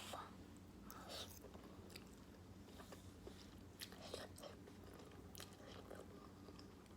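Faint mouth sounds of a person eating beef instant noodles: chewing with small wet clicks every second or so, over a low steady hum.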